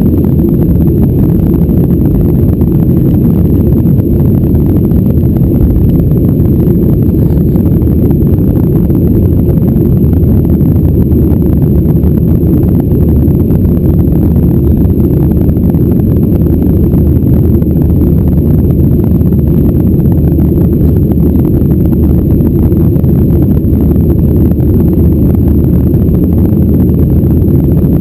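Steady, loud cabin rumble of a Boeing 737-800 in flight, its CFM56-7B jet engines and airflow heard through the fuselage as a deep, even roar with no change in pitch.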